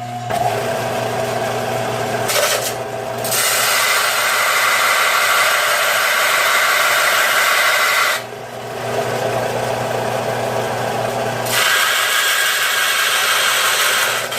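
Electric grinder running steadily, grinding down the edge of a sheet-steel patch panel to trim it to fit. It takes three passes: a brief touch about two seconds in, a long pass of about five seconds, and another from about eleven seconds on.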